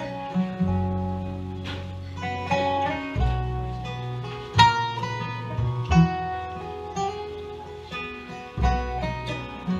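Acoustic guitar picking and strumming a song's instrumental introduction over long, held low bass notes.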